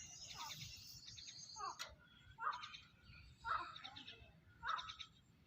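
Grey francolin (desi teetar) calling: a run of repeated harsh call phrases, about one a second, each with a quick falling note and rapid pulsed notes above it.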